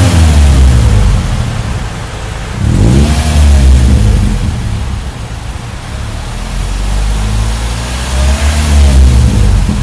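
Toyota Vios/Yaris Sedan NCP93's 1.5-litre four-cylinder engine idling through a Fujitsubo Wagolis aftermarket exhaust, with a low, deep note. It is blipped twice, briefly rising and falling in pitch about three seconds in and again near the end.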